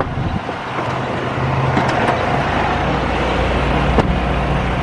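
A diesel engine idling steadily beside a tractor-trailer, a low even hum under outdoor noise, with a single click about four seconds in.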